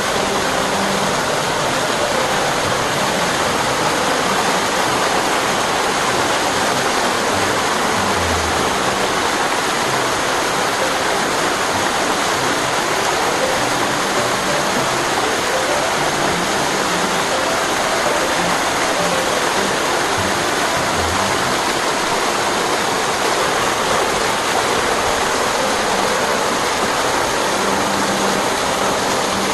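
Small waterfall in a mountain-valley stream, water pouring and splashing in a steady rush.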